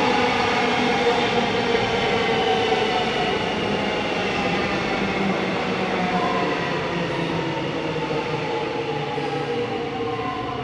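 Melbourne suburban electric train running along the platform, its traction-motor whine falling slowly in pitch as the sound eases away, over a steady rail rumble.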